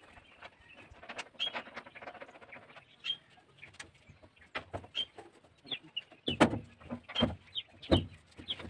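A bird calling with short, repeated chirps, and from about six seconds in a run of loud metal clanks and knocks from the sheet-metal thresher as it is climbed on and its hopper flap is handled.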